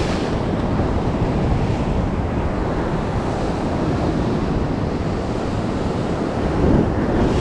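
Ocean surf washing steadily, with heavy wind rumbling on the microphone.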